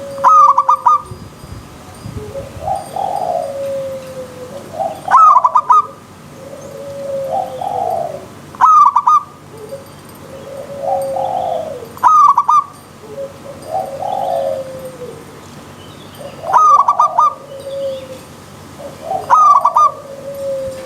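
Zebra dove (perkutut) singing its repeated song. Each phrase is a softer rising-and-falling coo followed by a loud, quick run of clipped notes, coming about every three to four seconds.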